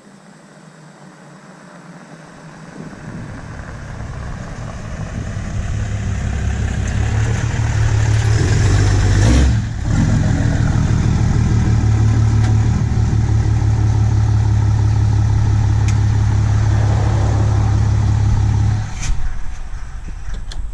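A 2016 Ram's 6.7 Cummins inline-six turbodiesel, DPF-deleted and running a 5-inch straight-pipe exhaust with no muffler, driving past under power. Its deep exhaust note grows louder as the truck comes closer, dips briefly about nine seconds in, then stays loud and steady until it drops away near the end.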